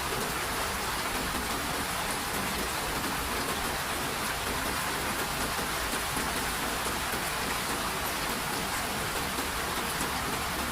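Steady rain falling on a surface, an even hiss with scattered fine droplet ticks.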